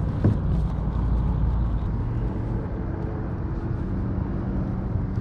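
Steady low rumble of wind buffeting the microphone outdoors, with a faint steady hum in the second half and a single light click about a quarter second in.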